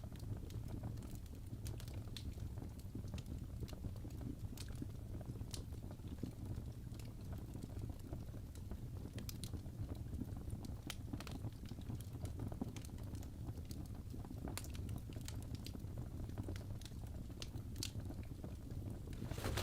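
Wood fire crackling in a fireplace: a steady low rumble of flames with irregular sharp pops and snaps, a burst of crackles near the end.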